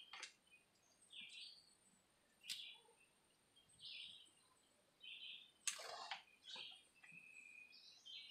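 A bird chirping over and over, a short high call every second or so. Mixed with it are a few sharp clicks and rustles of the high-pressure hose being coiled onto the pressure washer's hose carrier; the loudest comes about two thirds of the way in.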